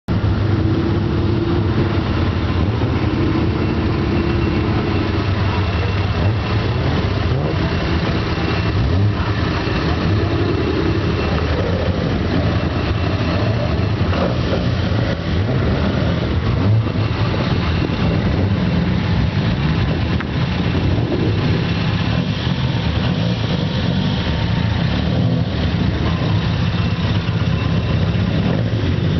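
Classic cars with loud aftermarket mufflers running, engines idling with some revving.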